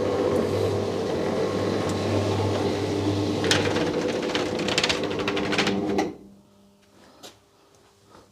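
Electric roller garage door (GAROLLA Transform Pro) running down on its motor: a steady hum with clattering from the rolling slats. It stops about six seconds in as the door closes, followed by a couple of faint clicks.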